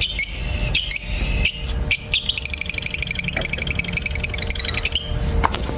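Lovebirds calling: sharp high chirps every half second or so, then a rapid chattering run of notes for nearly three seconds.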